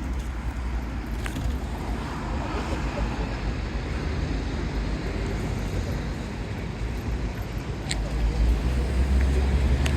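City street ambience: a steady rumble of road traffic, swelling louder near the end as a vehicle goes by close, with indistinct voices of passers-by.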